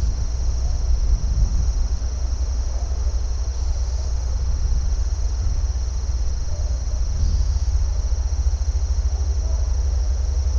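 A steady, unbroken high-pitched chorus of insects, over a continuous low rumble.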